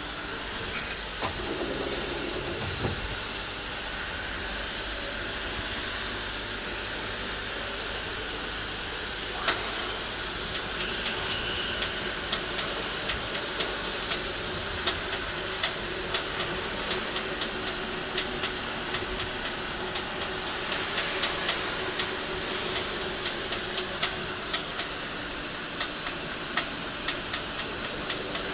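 Takisawa TC-30 NC lathe running, giving a steady hiss with a thin high whine. From about ten seconds in, light ticks are added, several to the second.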